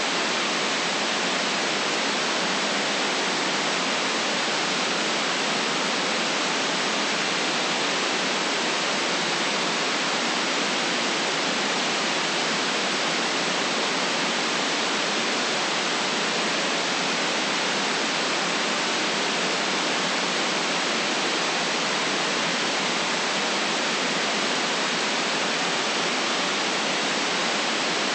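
Steady white noise: an even, unchanging hiss with no low rumble.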